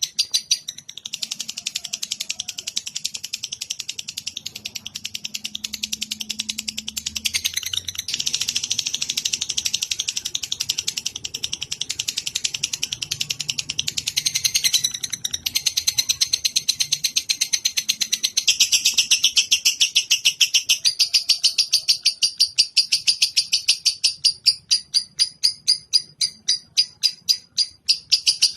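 Lovebird chattering in a long, unbroken trill of rapid, evenly repeated high chirps, played as a masteran for training songbirds; the notes space out to about four a second near the end.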